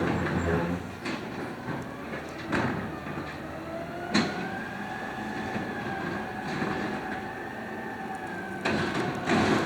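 Hydraulics of a 2012 automated side-loader garbage truck whining for about five seconds, the pitch rising slightly and then holding, with sharp metal clanks before it and a burst of metallic clattering near the end.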